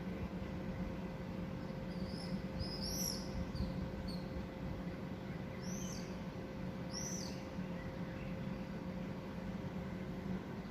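A bird giving short, high, arched chirps: a quick cluster, then two single chirps a few seconds later, over a steady low background noise.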